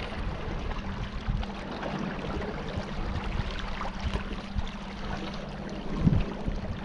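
Small boat under way: a motor runs with a steady hum, over the rush of water.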